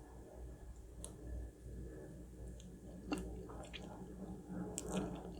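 Faint close-up eating sounds of soft red velvet cake with cream cheese icing, with a few light clicks spread through.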